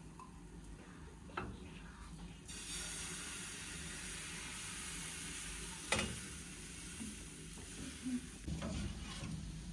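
Food sizzling in a hot frying pan, the sizzle setting in about two and a half seconds in, with a few sharp clicks and knocks over it, the sharpest near the middle.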